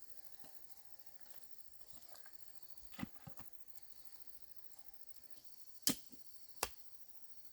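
Four sharp knocks, a pair about three seconds in and two louder ones near the end, over a steady high-pitched chirring of insects.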